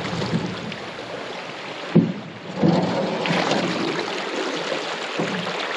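Paddling an aluminum canoe on a shallow river: water splashing and running around the paddles and hull, with a sharp knock about two seconds in.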